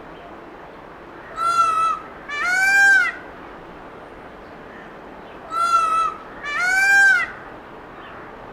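Peacock calling twice, each call a loud two-part cry: a short level note followed by a longer one that rises and falls.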